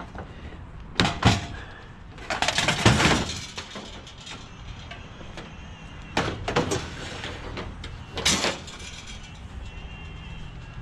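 Objects being handled and moved about, clattering and knocking: two sharp knocks about a second in, a longer rattling clatter at two to three seconds, and shorter clatters near six and eight seconds.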